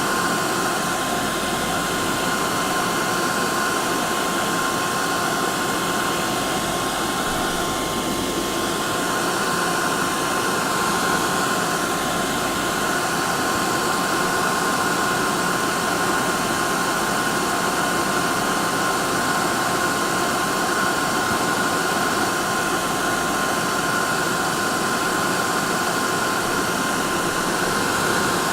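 Hair dryer running steadily: an even rush of blown air with a steady motor whine near 1 kHz, unchanging throughout.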